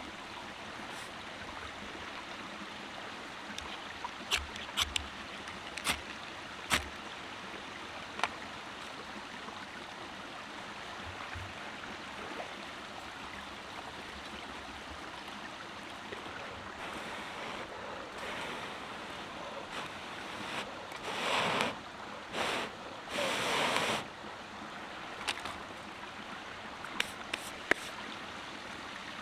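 Steady rushing, like flowing water, with scattered sharp clicks and a few louder rustling noises about two-thirds of the way through.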